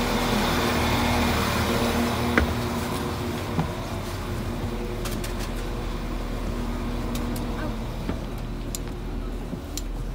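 Steady hum of a Class 196 diesel multiple unit heard from inside the carriage, its held low tones easing off a few seconds in. A sharp click comes about two seconds in, with a few light clicks and knocks later.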